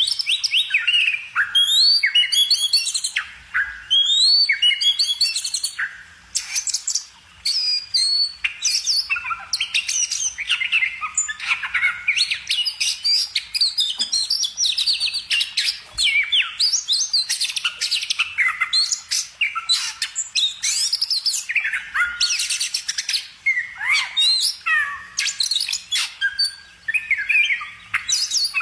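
Songbird singing continuously: a fast, varied stream of chirps, trills and quick rising and falling whistled notes with hardly a pause.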